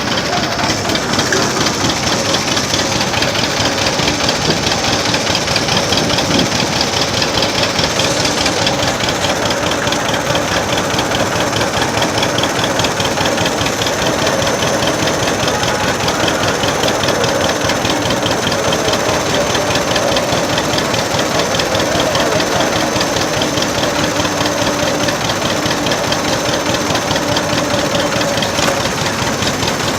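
Old tractor engine running steadily with a fast, even beat.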